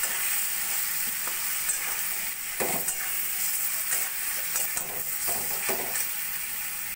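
Diced potato, pumpkin and pointed gourd sizzling in hot oil in a kadai while a metal spatula stirs and turns them, scraping the pan now and then.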